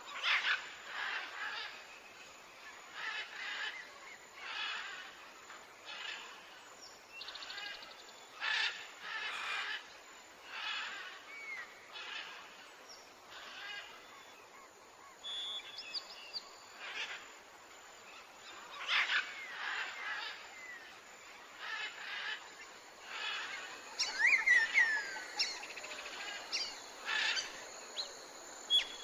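Birds calling: short calls repeated every second or so, with a few quick falling whistles near the end.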